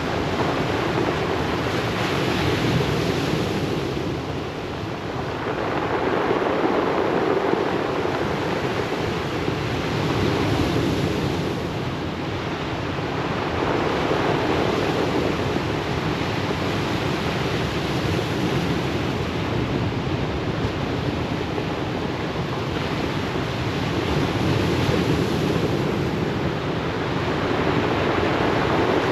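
Ocean waves breaking and washing up a pebble beach, a continuous surf that swells and eases every few seconds.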